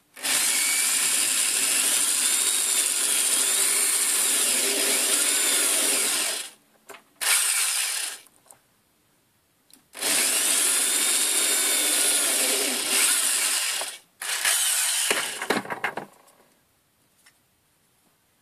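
Electric drill with a small bit drilling into the plastic of a wiper stalk switch. It runs in a long stretch of about six seconds, a short burst, then two more stretches, its whine rising and falling in pitch as the trigger is worked.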